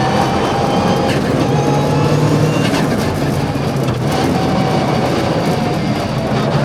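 Mitsubishi Evo VI Group A rally car's turbocharged four-cylinder engine under hard acceleration on track. Its pitch climbs, drops back at gear changes about one to two seconds apart, then climbs again, with a short sharp crack at the changes.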